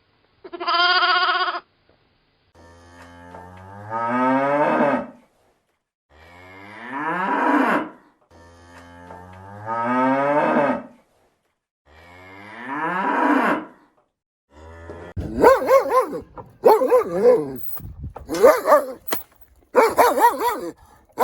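Cow mooing four times, each long low call rising in pitch as it goes. This comes after a brief steady call near the start. In the last six seconds a dog barks in quick, loud bursts.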